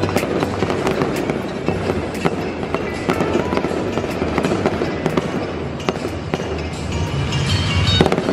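Fireworks show going off, a rapid, irregular run of sharp pops and crackles over a continuous rumble, with music playing along.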